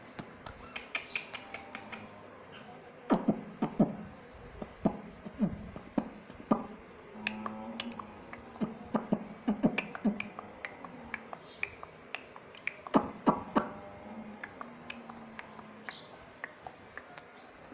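Ring-necked parrot making scattered sharp clicks and short soft chirps and mutters, in irregular runs with the loudest clicks about three seconds in and again near thirteen seconds.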